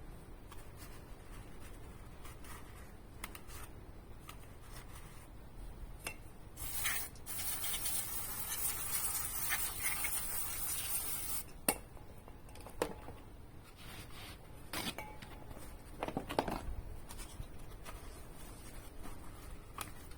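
An aerosol can sprayed in one continuous hiss of about five seconds near the middle, among small clicks, knocks and scrapes of handling parts and tools.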